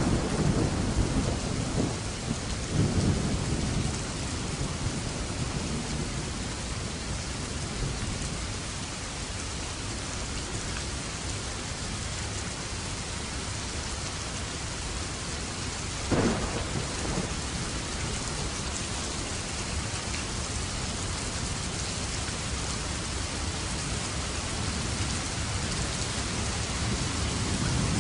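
Steady heavy rain with thunder. The thunder rumbles low through the first few seconds, and a single sharp crack about halfway through fades into a rumble.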